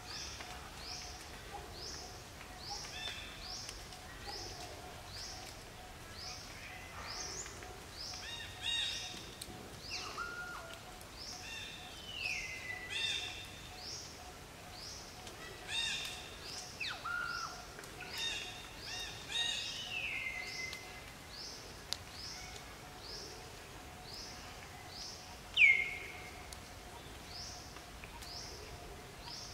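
Wild birds calling outdoors: one bird repeats a short high chirp about three times every two seconds, while others add calls of several stacked notes. A sharp downward-sliding call, the loudest sound, comes near the end, and a faint steady tone hums underneath.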